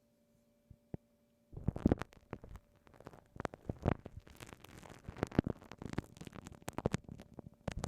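Glue stick worked against a binaural microphone, giving close, sticky crackling and popping in a dense, irregular run. It starts about a second and a half in, after a near-quiet moment.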